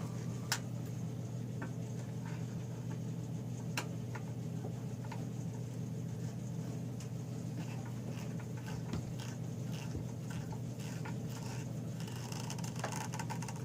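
Scattered light clicks and taps of small engine parts and hand tools being handled, over a steady low hum.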